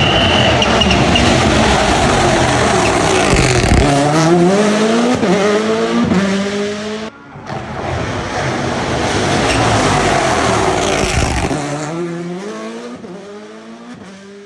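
Rally cars at full throttle: the engine climbs in pitch through several quick upshifts, then after an abrupt break a second run climbs through the gears again and fades away toward the end.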